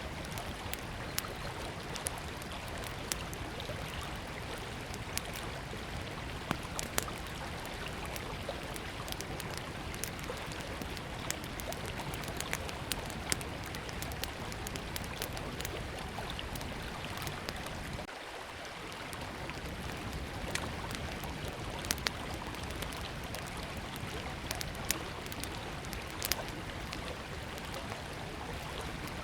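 A river flowing steadily, with a small wood fire crackling over it in sharp scattered pops.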